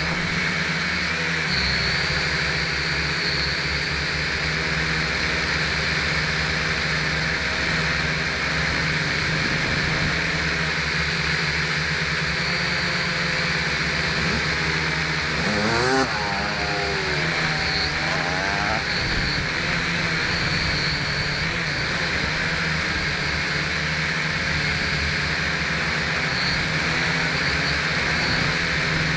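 WLtoys V929 toy quadcopter's electric motors and propellers whirring steadily close to the microphone, with a brief swoop up and down in pitch about halfway through.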